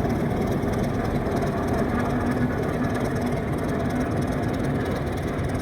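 Alco RS8 diesel locomotive engine running steadily with a deep, even drone.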